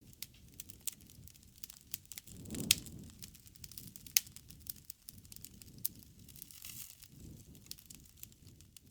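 Bonfire crackling: sharp pops and snaps of burning wood over a low rumble of flames, with two louder pops, one a little under three seconds in and one about four seconds in.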